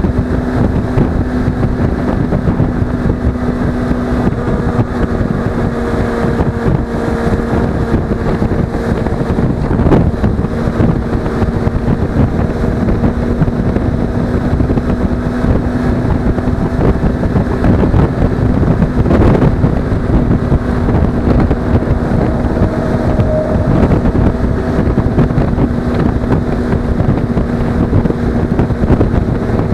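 Suzuki V-Strom 250's parallel-twin engine running at a steady cruising speed, its note holding one pitch, with wind rushing over the action camera's microphone.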